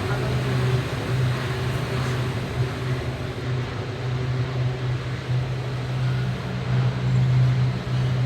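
Steady low hum with an even rushing noise inside a moving aerial tramway (cable car) cabin.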